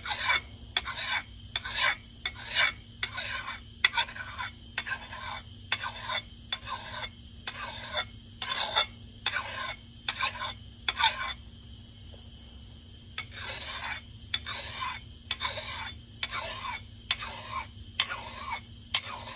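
Steel axe edge being hand-sharpened: even rasping strokes about one every three quarters of a second, with a short pause a little past halfway, working down a still-blunt middle of the edge.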